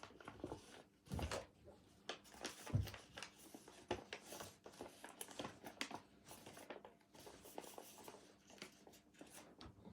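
Faint rustling and soft taps of a paper airplane being handled, with a dull thump about three seconds in.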